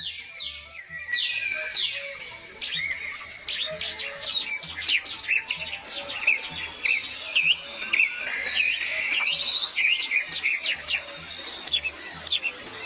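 Birds chirping busily, a rapid run of short, sharp, high notes one after another, over background music with a steady beat.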